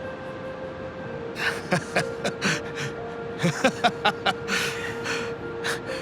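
A person's short, breathy gasps in a quick uneven series, over soft background music holding a steady note.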